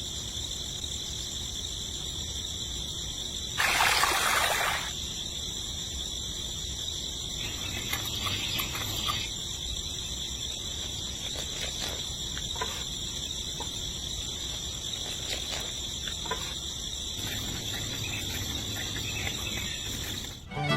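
Steady high-pitched insect chirring, with a brief rushing noise about four seconds in and a few faint clicks.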